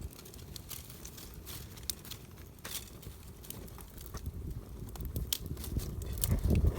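Wood campfire crackling, with irregular sharp pops and snaps over a low rumble that swells louder near the end.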